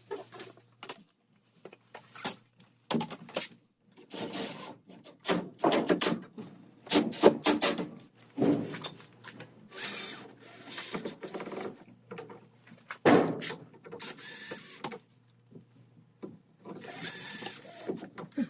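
Irregular knocks, scrapes and rattles of hand work with tools and materials, coming in short spurts with brief pauses between them.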